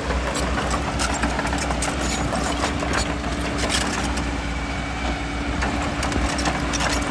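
Bulldozer's diesel engine running steadily, with frequent short sharp clanks and rattles over it.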